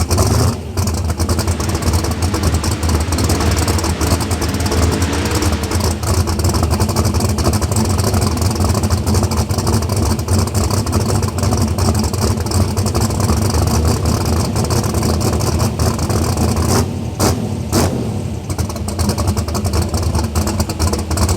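Turbocharged LS V8 drag car engine running steadily with a rapid pulsing exhaust note, with two short sharp sounds about 17 seconds in.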